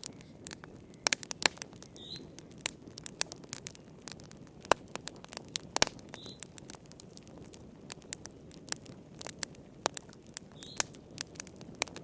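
Wood fire crackling in a fireplace: irregular sharp pops and snaps, a few of them loud, over a soft steady rush of flame.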